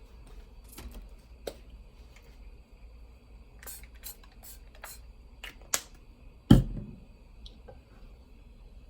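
A run of light clicks and taps from small objects being handled, with one heavier knock about six and a half seconds in.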